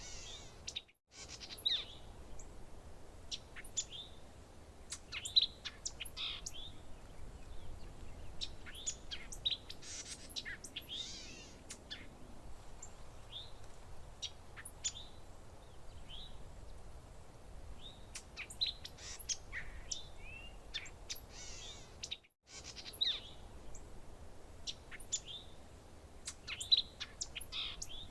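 A chorus of small songbirds chirping and calling: many short chirps and quick down-slurred notes, over a faint low background hiss. The sound drops out completely twice, briefly, about a second in and again near 22 seconds.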